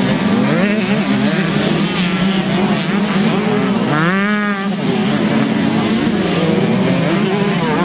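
Several 125 cc two-stroke motocross bikes revving up and down over a steady engine drone, one bike's engine climbing and falling sharply about four seconds in.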